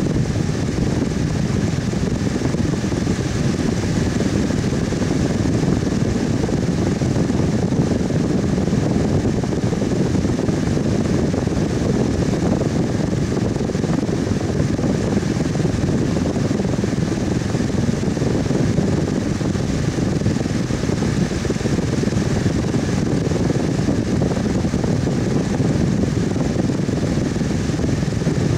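Electric fan running steadily: an even whooshing of moving air, strongest in the low range, with a faint steady hum from the motor.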